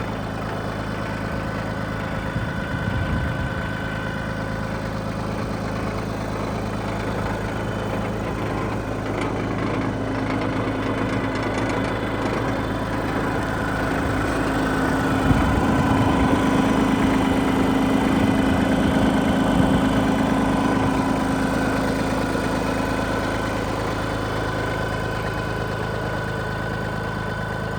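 Iseki TPC15 crawler tractor's engine running steadily, getting louder with a higher note through the middle before easing back. A few knocks come about three seconds in and again around the loudest part.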